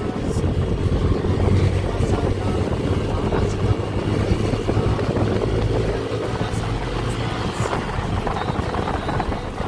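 Small motorcycle being ridden, its engine running steadily under heavy wind noise on the microphone.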